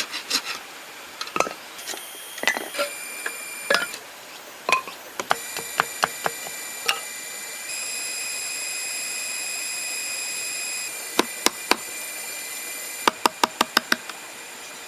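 A series of sharp knocks and taps, scattered at first and then in a quick run of about six strokes near the end, over a faint high steady whine that changes abruptly every few seconds.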